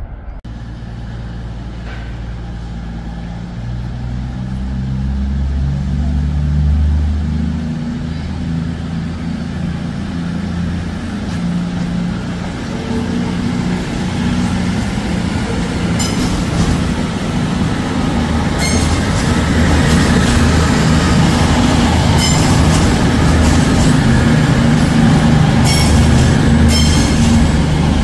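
A train running at the platform, with a low engine drone that shifts in pitch and grows louder, and brief high squeals from about halfway through.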